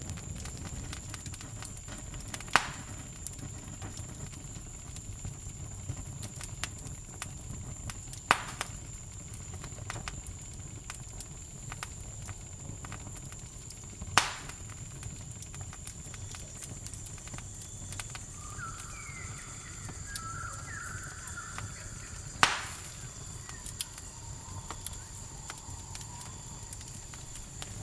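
Campfire crackling with a steady low rumble and many small clicks, with four sharp, loud pops spread through it. Crickets keep up a steady high trill behind the fire, and a short burst of chirping calls comes about two-thirds of the way in.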